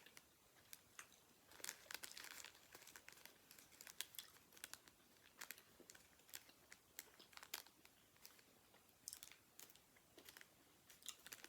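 Faint, scattered crinkling and clicking of a candy wrapper being handled, with mouth sounds of chewing a soft sour chew candy.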